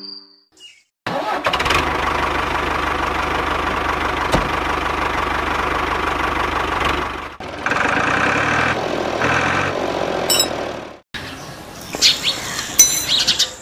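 A small engine running steadily with an even rhythmic chug, in cut-together clips that start and stop abruptly. Brief high chirps come near the end.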